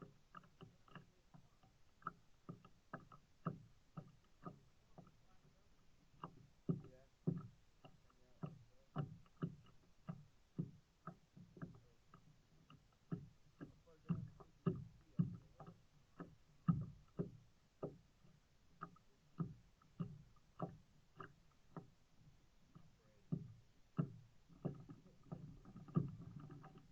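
Kayak paddling: a short, sharp sound with each paddle stroke, about two a second, some strokes louder than others.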